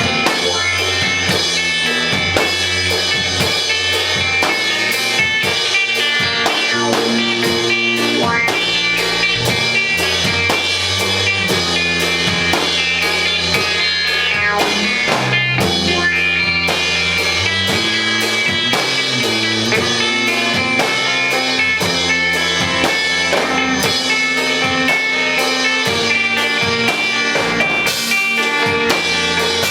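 Rock band playing live: drum kit keeping a steady beat under electric guitar, with a moving low bass line.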